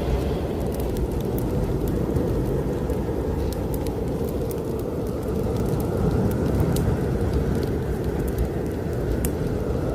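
Snowstorm wind blowing steadily with a low rumble and a faint whistle that swells and fades in the second half, over a fireplace fire crackling with scattered sharp pops.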